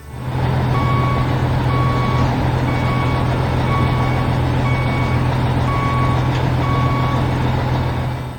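A heavy construction vehicle's reversing alarm beeping about once a second over the steady running of its diesel engine. The vehicle is backing up.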